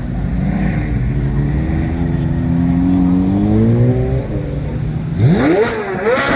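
Car engine being revved: the revs climb slowly for a few seconds and ease off, then two quick sharp blips near the end.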